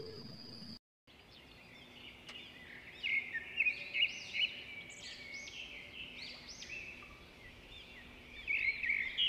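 Birds chirping outdoors: many short calls that rise and fall in pitch, over a faint hiss, beginning about a second in.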